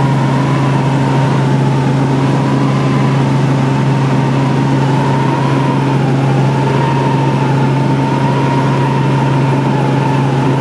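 Helicopter engine and rotors running steadily in flight: a loud, constant low drone with a high whine that wavers slightly in pitch.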